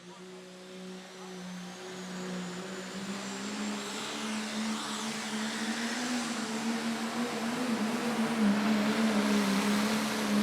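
Super stock diesel pulling truck's engine running hard under load on a pull, growing steadily louder, with a thin high whine above the engine note.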